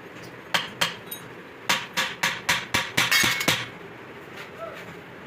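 Hammer tapping on metal: two strikes, then a quick run of about eight strikes at roughly four a second.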